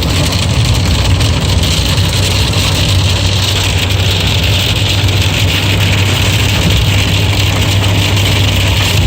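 Steady hum of a car's engine and road noise, heard from inside the moving car, with an even hiss over it.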